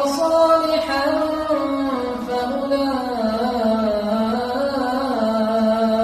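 A single voice chanting in long held notes that bend slowly up and down in pitch, unaccompanied.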